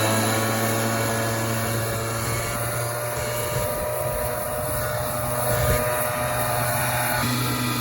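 A motor running steadily, with a constant low hum and a hiss over it; it cuts in abruptly at the start.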